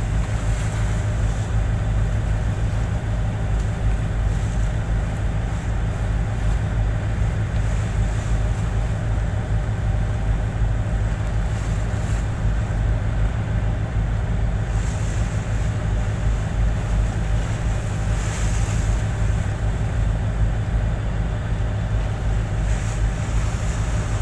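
Boat engine running steadily at constant speed, a low, even drone. A few short hissing rushes of wind or spray pass over it, about halfway through and again near the end.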